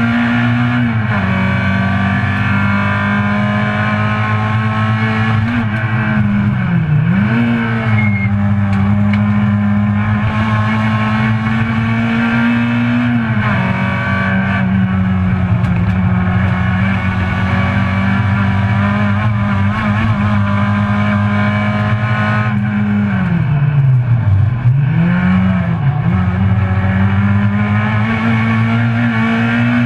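Citroen C2 GT track car's engine heard from inside the cabin, running hard at high revs. Its pitch holds steady for long stretches, then drops and climbs back several times as the car changes gear and slows for corners.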